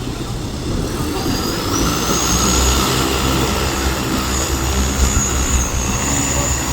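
Large multirotor delivery drone's motors and propellers spinning up: a high whine rises about two seconds in, then holds steady over a low rumble.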